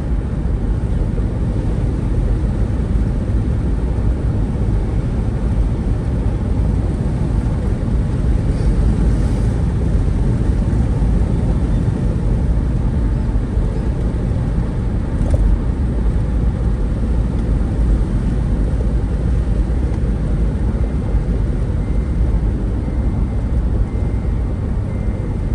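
Steady low rumble of a moving vehicle: road and wind noise while driving.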